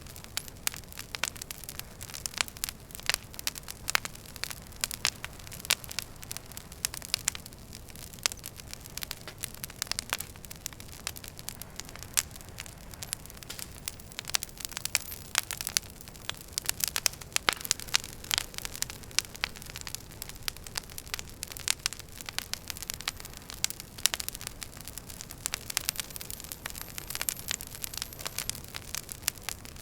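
Wood fire in a fireplace crackling, with many irregular sharp pops and snaps over a steady soft hiss.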